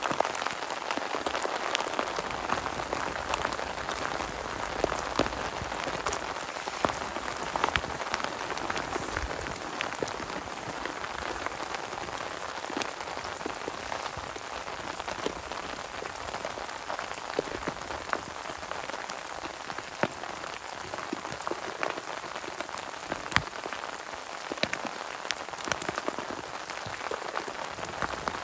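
Steady rain falling, an even hiss with many sharp taps of single drops scattered through it.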